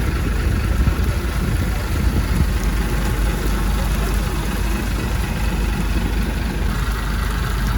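Longtail boat's engine running steadily.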